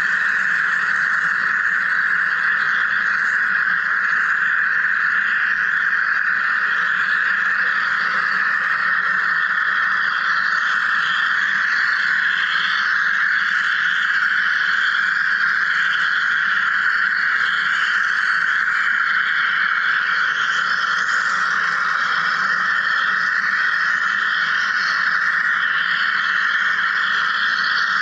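Wire EDM machine cutting: a steady buzzing hiss that holds unchanged throughout.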